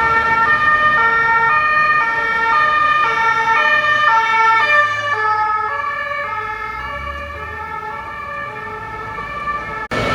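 French two-tone (deux-tons) police siren alternating steadily between a high and a low note. About halfway through its pitch drops slightly and it grows quieter, as the vehicle passes and moves away.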